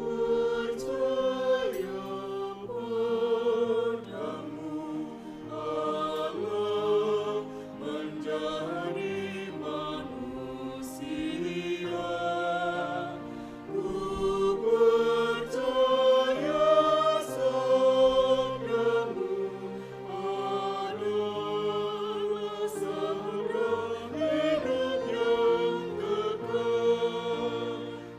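Choir singing in several-part harmony, holding long chords that move from one to the next.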